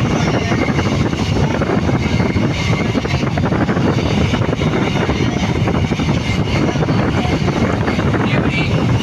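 Steady loud rumble of a moving vehicle with wind buffeting the microphone, without pause or change.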